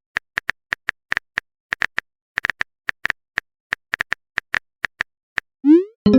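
Phone keyboard click sounds tapping out a message, about three or four short clicks a second, followed near the end by a quick rising swoosh like a message-sent sound.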